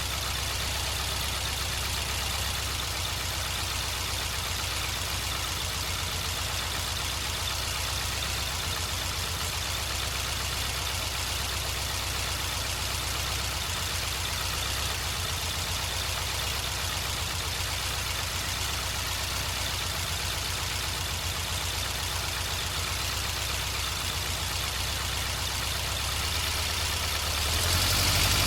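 Air-cooled 2.0 L VW Type 4 flat-four with dual Weber 40 IDF carburettors idling steadily, a little under 900 rpm. About a second before the end the revs pick up and it gets louder.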